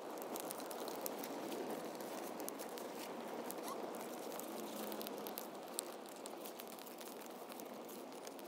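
Wood campfire burning, with a steady noise and irregular small crackles and pops.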